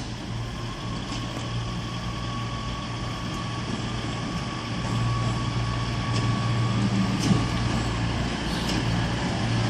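Four-car CrossCountry diesel multiple unit, taken for a Class 220 Voyager, pulling into the platform. Its diesel engines hum steadily and get a little louder about halfway through, with a faint steady whine above.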